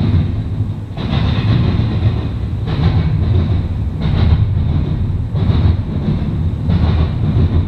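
Double-stack intermodal freight train rolling past close by: a steady low rumble of steel wheels on rail, with a brighter clatter returning every second or so.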